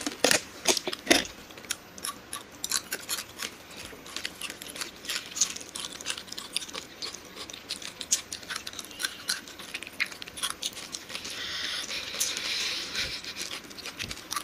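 Close-miked chewing and crunching of candy-coated chocolate buttons: many small, sharp crunches of the candy shells, with a soft hiss for a couple of seconds near the end.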